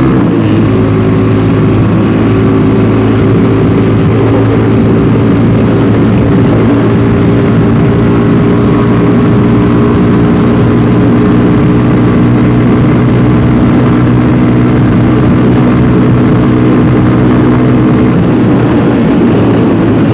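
Df250rts (Venom X22R) 250 cc motorcycle engine under way in fourth gear at over 50 mph, a steady engine drone that holds its pitch. The pitch shifts slightly right at the start and again a couple of seconds before the end.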